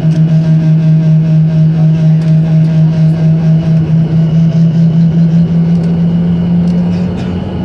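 Loud, steady low hum inside an airliner cabin on landing, wavering in level, with a fainter higher tone above it; it eases off slightly near the end. This is the strange noise the passenger found a bit scary.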